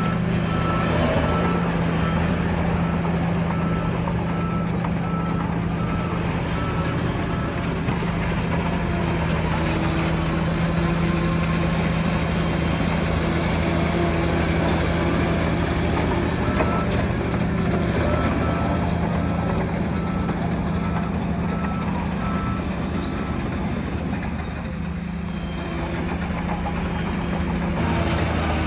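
Heavy bulldozer diesel engine running steadily as the Shantui DH17C3 works, with a reversing alarm beeping in two spells of several seconds each. The engine eases off briefly near the end.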